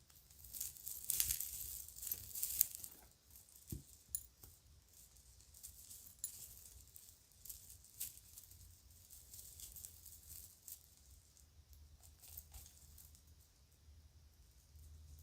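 Kids' jewelry and a bag being handled close up: crinkling, loudest about one to three seconds in, then scattered light clicks and rattles of small jewelry pieces.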